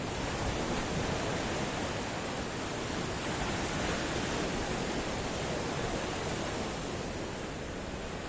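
Ocean waves washing on the shore, a steady rush of surf that swells gently through the middle and eases off toward the end.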